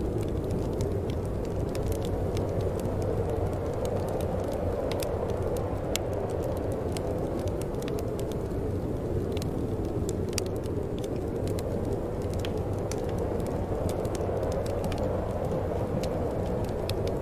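Wood fire burning in a fireplace: a steady low rush of flame with frequent small, sharp crackles and pops.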